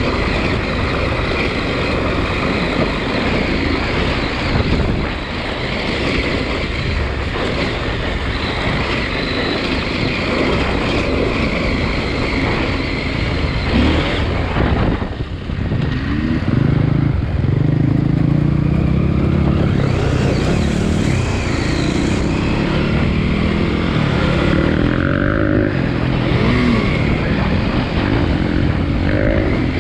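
KTM 890 Adventure R's parallel-twin engine running as the bike is ridden; after a brief dip about halfway through, its note rises and falls with the throttle.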